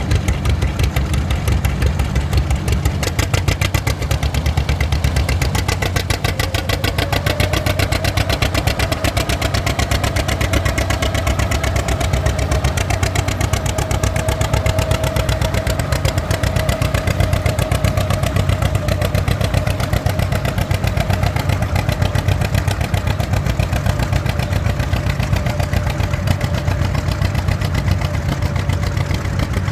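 Vintage tractor engine running steadily with a rapid, even exhaust beat. A thin whine rises a little about six seconds in and then holds.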